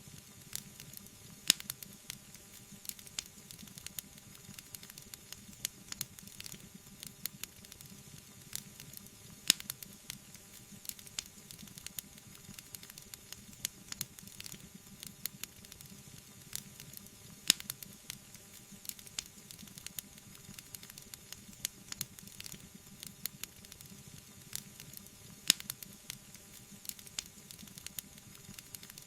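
Wood fire crackling: a steady soft hiss with frequent small pops, and a louder sharp pop about every eight seconds.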